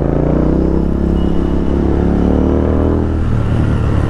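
Royal Enfield Continental GT 650's parallel-twin engine running through a loud Thrive aftermarket exhaust while riding. The note rises a little in pitch over the first second, holds, then changes about three seconds in.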